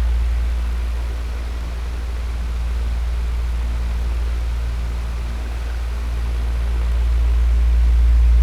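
Electric fan running steadily: a low motor hum under a whooshing hiss of moving air, the level slowly falling away and swelling back up near the end.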